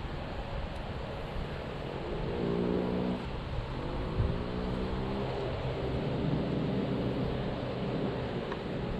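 Boat motor running, its pitch drifting up and down, under steady wind and water noise.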